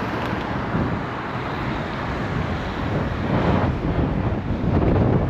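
Wind buffeting a GoPro microphone on a moving bicycle, a rushing, gusting noise with street traffic underneath, growing louder in the second half.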